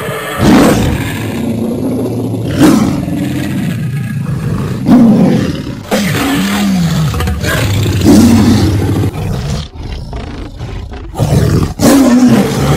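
Loud cartoon roaring in a series of repeated roars. A new roar starts every two to three seconds, with a short drop near ten seconds in.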